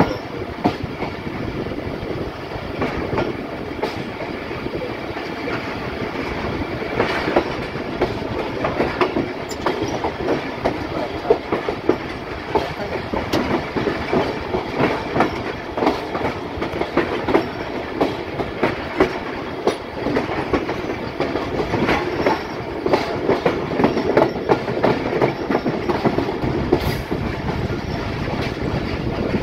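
Passenger train running along the track, heard from on board: a steady rumble with irregular clacks of the wheels over the rail joints.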